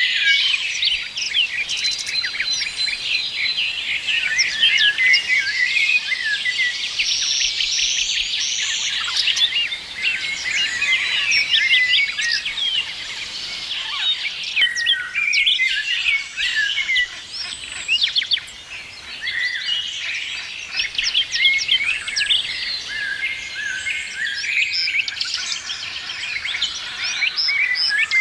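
A chorus of many small songbirds singing and chirping at once, with dense overlapping short chirps and trills, over a steady background hiss.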